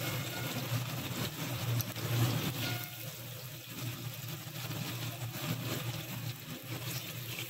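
Chopped onions sizzling in hot oil in a steel kadhai: a steady frying hiss with small scattered crackles.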